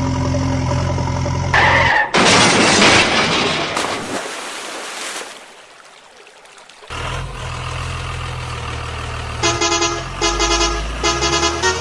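Truck engine running steadily, broken by a loud rushing noise for a couple of seconds and a quieter lull, then four short horn honks near the end.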